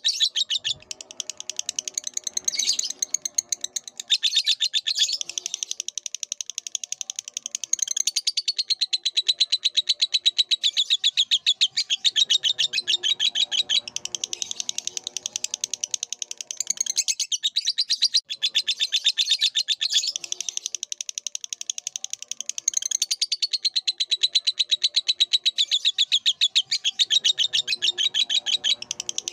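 Lovebird singing a long, very rapid chattering trill of high chirps, broken only by a few short pauses.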